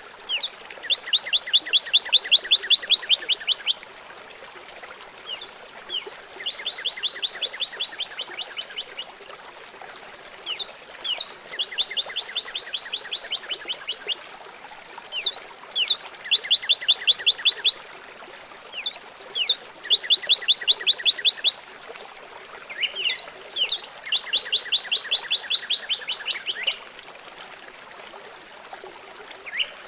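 A songbird singing the same song over and over, six times, roughly every four to five seconds. Each song opens with two or three quick rising whistles, then runs into a fast, even trill of about two to three seconds. A steady faint hiss runs underneath.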